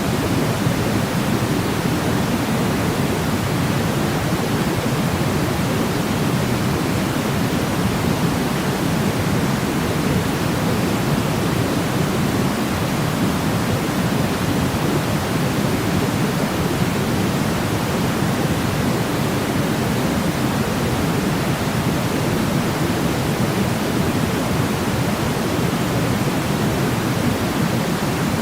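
Continuous sleep white noise: a steady, even rush with no variation, heavier in the low end than a thin hiss.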